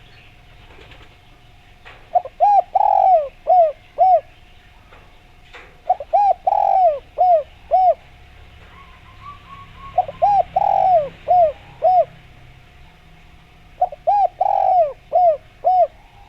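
Spotted dove (derkuku) cooing: four phrases about four seconds apart, each a quick run of about six short coos with a longer, louder coo in the middle.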